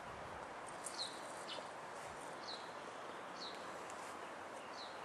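A small bird calling: short, high chirps sliding down in pitch, repeated about once a second over a steady outdoor hiss.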